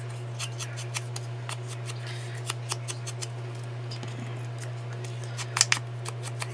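Paper-crafting handwork at a desk: a run of small sharp clicks and snips, several a second and uneven, with a few louder ones near the end, over a steady low hum.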